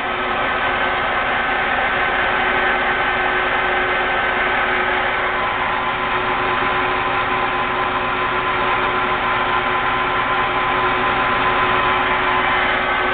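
Geared-head engine lathe running under power with the power cross feed engaged: a steady mechanical drone with gear whine in the headstock and feed gearing. About five seconds in the whine shifts, one higher tone dropping out and a slightly lower one coming in.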